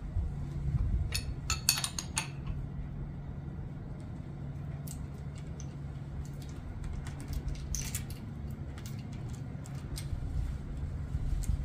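Light metallic clinks and rattles of a Toyota 2AZ-FE timing chain being handled and laid over the camshaft sprockets, a quick cluster a second or two in and more scattered around eight seconds, over a steady low hum.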